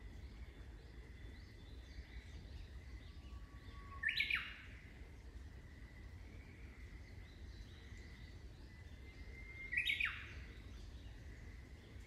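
Wild birds calling: two loud calls about six seconds apart, each a brief burst that sweeps down in pitch, over faint steady high chirping and a low background hum.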